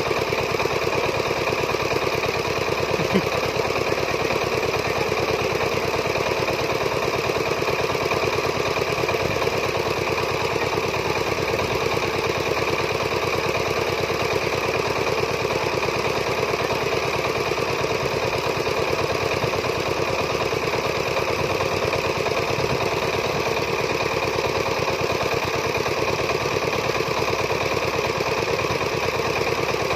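Diesel engine of a farm machine running steadily at constant speed, with a fast even knock.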